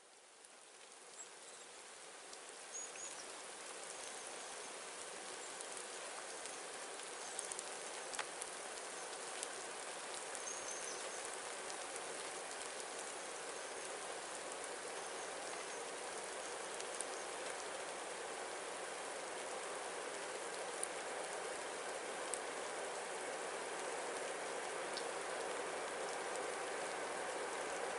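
Light rain after a thunderstorm: a steady soft hiss with scattered drop ticks, fading in at the start and slowly growing louder.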